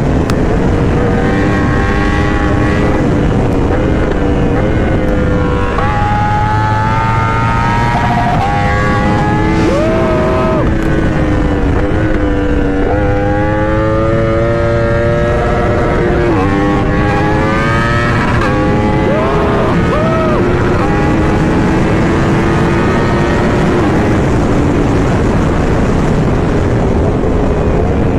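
Sportbike inline-four engine at high revs, its pitch climbing, breaking at gear changes and dropping off again several times as the bike is ridden hard.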